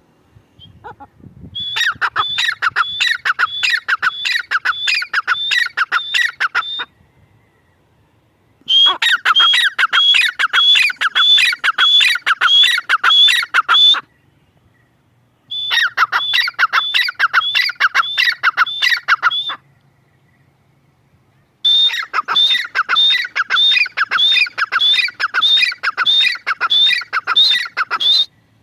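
Grey francolin calling: four bouts of loud, shrill notes repeated about twice a second, each bout lasting several seconds, with short pauses between.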